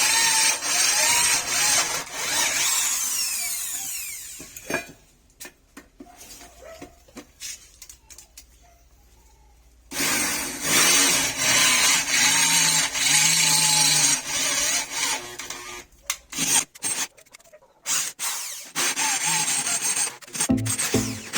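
Handheld power tool running in several spells, winding down about four seconds in. Between spells there are quiet stretches with scattered knocks and clicks.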